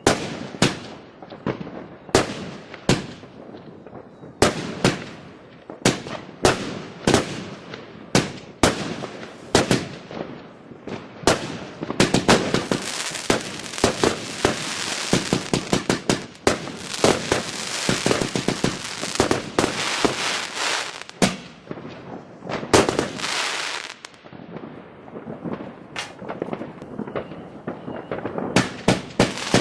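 New Year's Eve consumer fireworks going off: sharp bangs about every half second to a second, then a long dense run of rapid overlapping bangs and crackle from about twelve seconds in, before spaced bangs resume.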